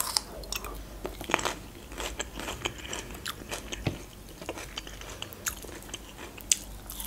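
Crunchy chewing of a green pepper ring, with many short crisp crunches and mouth clicks.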